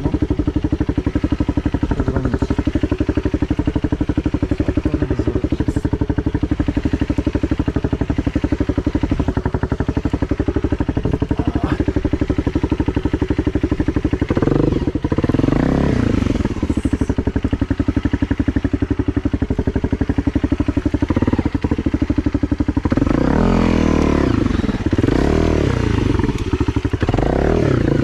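An engine running with a rapid, even pulse. Its pitch rises and falls about halfway through and again near the end, as with changing revs.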